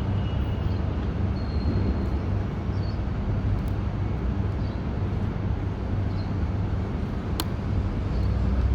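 Steady low humming rumble over a noisy background, with a few faint short high chirps and one sharp click about seven and a half seconds in.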